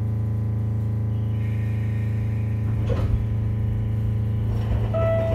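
Steady low electrical hum inside an Echizen Railway MC7001 railcar (ex-JR 119 series), with a single clunk about three seconds in and a steady tone coming in near the end.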